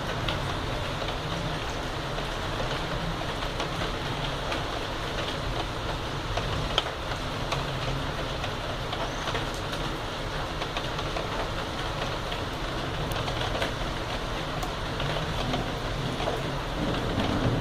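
Heavy rain falling steadily, with scattered drops ticking on nearby surfaces.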